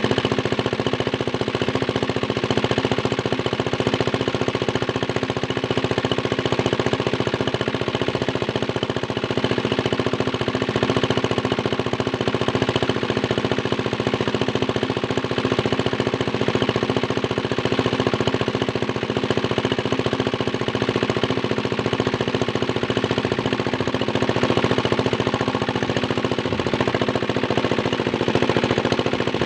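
Small Chinese diesel engine driving a water pump, running steadily with a rapid, even knocking beat.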